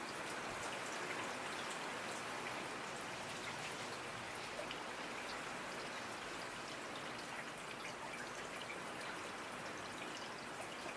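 Steady rainfall, with a dense hiss of rain and many small individual drops pattering.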